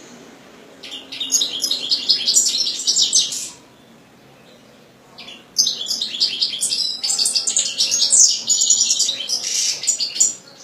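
European goldfinch singing: two bouts of rapid twittering song, the first about three seconds long and the second about five seconds, with a short pause between.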